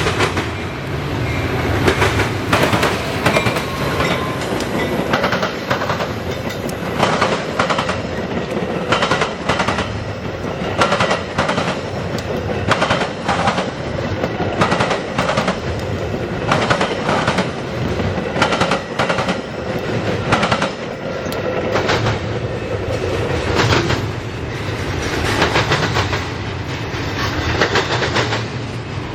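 Train rolling past close by, its wheels clacking over rail joints again and again above a steady rumble.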